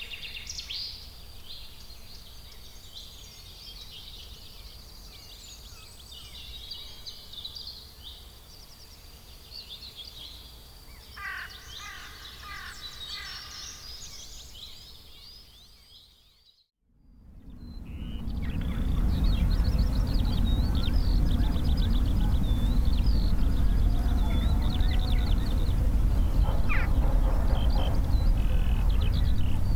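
Birds chirping and twittering over a low background rumble. About halfway through, the sound fades out for a moment and comes back with a much louder low rumble under the birdsong.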